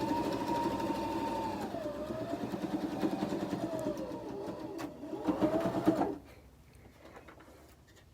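Electric sewing machine stitching a seam, its motor whine rising and falling as the speed changes over a fast, even needle rhythm; it stops about six seconds in.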